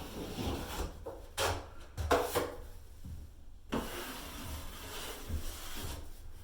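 Drywall knife scraping and spreading joint compound over a wall patch, with a few louder scrapes and knocks between about one and four seconds in.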